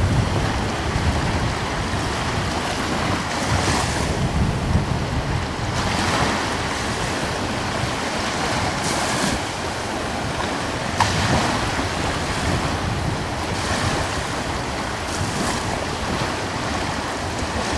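Gentle sea waves washing and breaking on the shore, swelling every two or three seconds, with wind buffeting the microphone in a low rumble.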